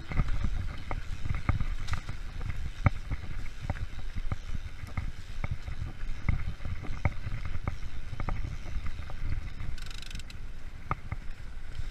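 Freeride mountain bike rolling along a forest trail: a steady low rumble of tyres on the ground, broken by many irregular rattles and knocks from the bike, with a short hiss about ten seconds in.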